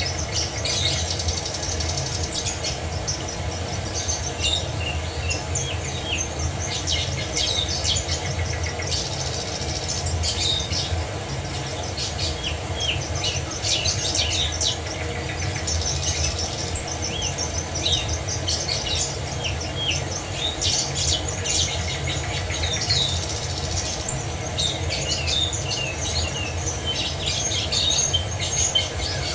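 Many songbirds chirping and singing with short, high notes and trills that overlap, over a steady low rush of falling water from a waterfall.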